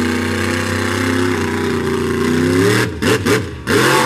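Monster truck engine running hard at steady revs, then revving up about two and a half seconds in and breaking into a few sharp throttle blasts near the end.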